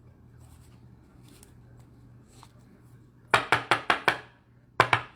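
A quick run of about six sharp taps or clicks, then two more a moment later, from cards and card holders being handled on a tabletop.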